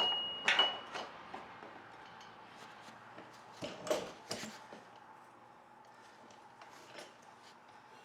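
Metal tools and engine parts clinking and tapping: a couple of sharp clinks at the start, one ringing briefly, then a few lighter clicks about four seconds in and one more near the end.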